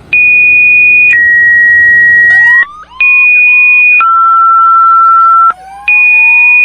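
Fire department two-tone dispatch alert: a high tone about a second long, then a lower tone about a second and a half long, repeated with short gaps. The lower tone drops further in the later pairs. From about two seconds in, sirens rise and sweep up and down underneath.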